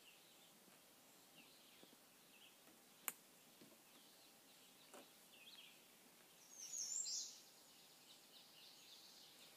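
Near-silent dawn ambience with faint, scattered bird chirps. A single sharp click comes about three seconds in, and a louder, high-pitched bird call lasting under a second sounds around seven seconds in.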